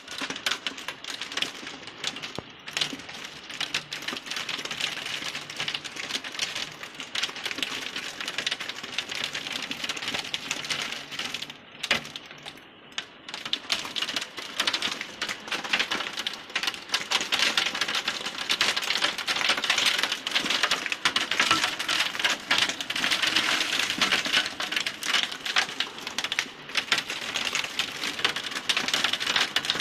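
Hailstones pelting down in a heavy hailstorm: a dense, irregular clatter of sharp clicks over the hiss of the storm. It eases briefly, then comes down harder for the second half.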